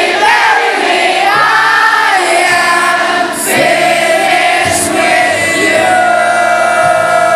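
A large concert crowd singing along with the band's live music, many voices holding long sung notes together.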